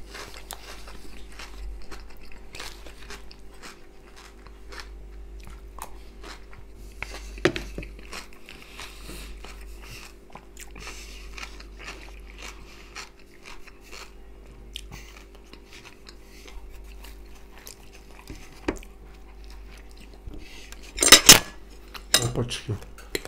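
Close-miked chewing and biting of fried potatoes and a tomato-and-cucumber salad, with small clicks of a spoon and fork against a plate and a plastic bowl. A louder clatter of cutlery on the dishes comes about 21 seconds in, over a faint steady hum.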